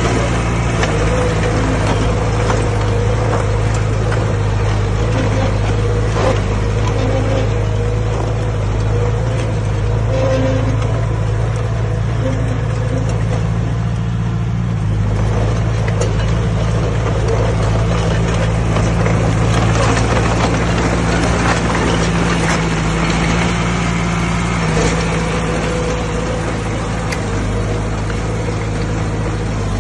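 Diesel engine of heavy earthmoving machinery running steadily at working speed, with scattered clanks and rattles. The engine note shifts about halfway through.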